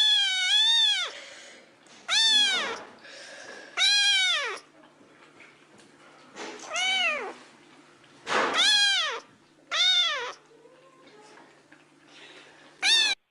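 A cat meowing repeatedly: about seven drawn-out meows, one to three seconds apart, each rising and then falling in pitch, the first one longer and wavering.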